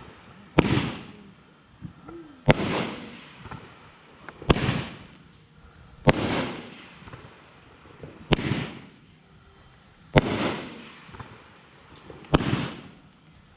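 Aerial fireworks going off in a steady sequence: seven sharp bangs about two seconds apart, each trailing off over about a second, with a few fainter pops in between.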